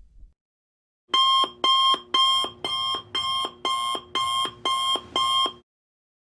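Alarm clock sound effect: nine electronic beeps in a steady rhythm of about two a second, starting about a second in and stopping abruptly.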